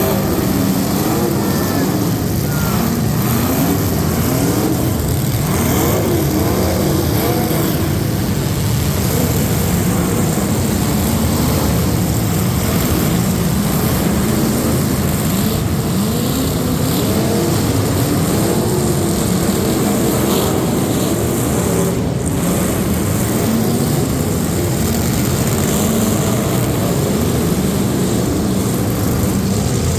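Competition trucks' engines running hard and revving, the pitch repeatedly climbing and dropping back as the throttle is worked, over a steady loud drone.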